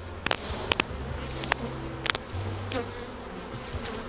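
Honeybees buzzing in a steady hum around an opened hive, with a handful of sharp clicks scattered through.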